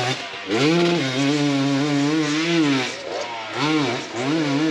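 Off-road motorcycle engine revving hard and dropping back several times as the rider works the throttle, with a long held rev in the first half and shorter blips near the end.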